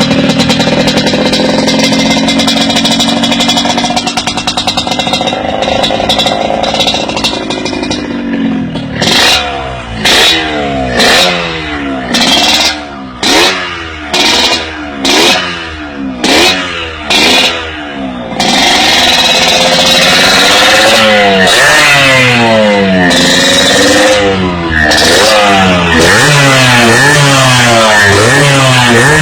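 Yamaha RX-King two-stroke single-cylinder motorcycle engine with an MCC aftermarket exhaust. It runs steadily at first, then is blipped about nine times in quick succession, roughly once a second. After that it is held at high revs, rising and falling in pitch.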